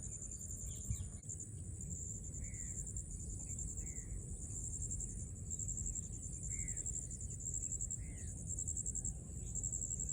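Steady, rapidly pulsing, high-pitched insect chorus, with a bird giving short arched calls about every second or two, over a low rumble.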